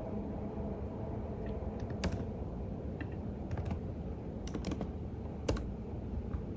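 Computer keyboard typing: scattered keystrokes, some single and some in quick little runs, with one louder key press about five and a half seconds in, over a steady low background rumble.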